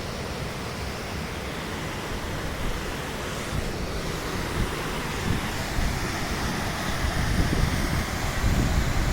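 Wind buffeting the microphone over a steady rushing hiss, with low gusts growing stronger in the last few seconds.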